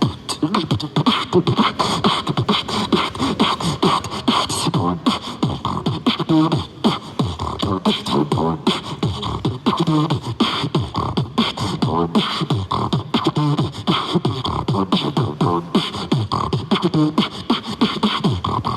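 Human beatboxing: a fast, steady run of vocal drum sounds, with kicks, snares and hi-hat clicks, plus some pitched humming.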